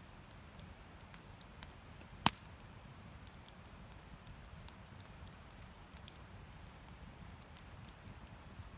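Wood campfire crackling: scattered faint crackles over a low steady rumble, with one loud sharp pop about two seconds in.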